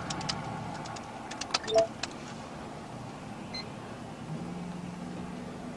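Inside an idling patrol car: a run of light clicks in the first two seconds, a short two-note electronic beep just under two seconds in, over a steady low hum.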